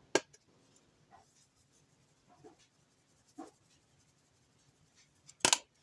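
Light handling clicks and taps while spices are shaken onto a dish: a sharp click at the start, a few faint taps, and a louder sharp click near the end.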